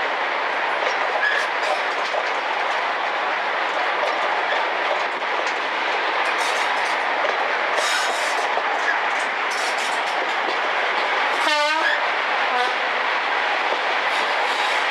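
Train hauled by a Class 55 Deltic locomotive running along the line, heard from an open carriage window: a steady rush of train and wind noise with scattered clicks of the wheels over the track, and a brief sweeping whoosh about three-quarters of the way in.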